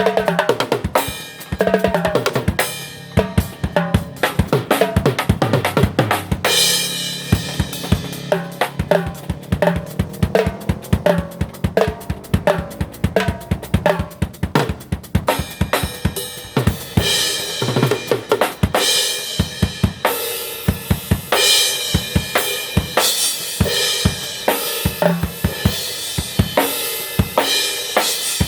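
Drum kit playing a busy, steady groove of kick drum, snare and cymbals, with pitched instruments sounding along underneath.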